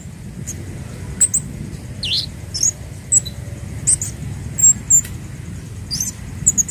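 Kemade bird giving short, high-pitched chip calls at irregular intervals, with one lower down-slurred call about two seconds in.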